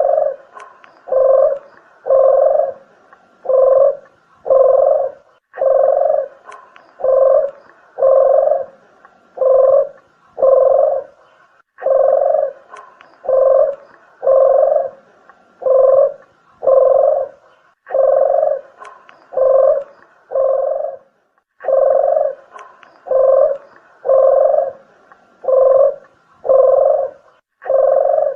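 Deruk dove (puter geni) cooing in a steady repeating series of low, hollow coos, about one every 0.7 s, grouped in runs with short breaks between them. It is a looped lure call used to draw in wild doves.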